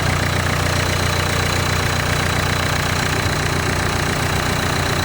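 Nissan Note E11's 1.5 dCi four-cylinder turbodiesel engine running steadily at idle, an engine in good working order.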